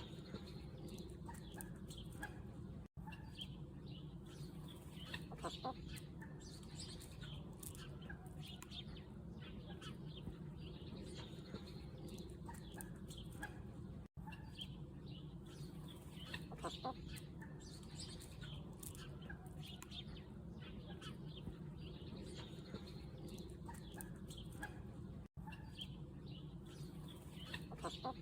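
Chickens clucking with small birds chirping over a steady low hum. The sound seems to loop about every eleven seconds, with a brief dropout at each join.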